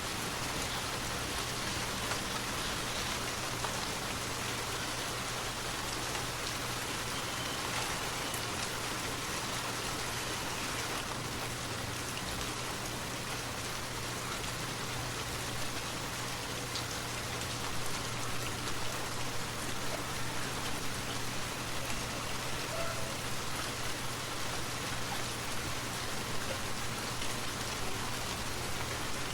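Steady rain falling, a continuous even hiss of drops with no break.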